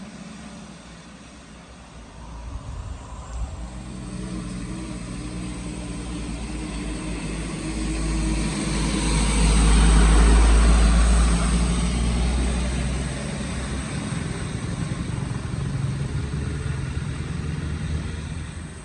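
A vehicle engine running as it comes closer, loudest as it passes about ten seconds in, then carrying on more quietly until it fades near the end.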